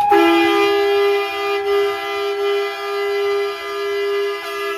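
A long, steady horn blast of two low notes sounding together, lasting nearly five seconds and cutting off at the end, with a higher held tone sliding slightly down above it.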